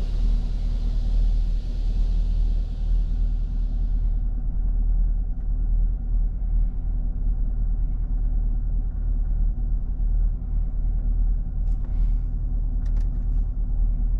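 Chevrolet Camaro 2SS's 6.2-litre V8 idling steadily, heard from inside the cabin. A hiss from the car wash fades out about four seconds in, and a few light ticks come near the end.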